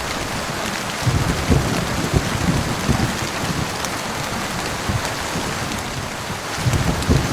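Steady heavy rain, with low rumbling underneath that swells about a second in and again near the end.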